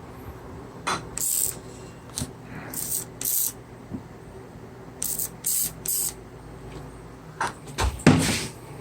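A series of short hisses, each a fraction of a second long and coming in quick twos and threes, with a few sharp clicks between them and a louder knock with a hiss near the end.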